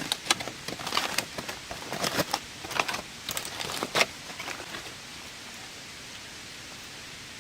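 Steady hiss of rain, with a run of irregular clicks and rustles over the first few seconds that stops about five seconds in.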